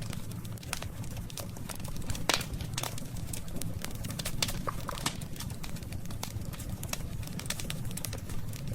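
Campfire of burning wood crackling: irregular sharp pops and snaps over a steady low rumble of the flames.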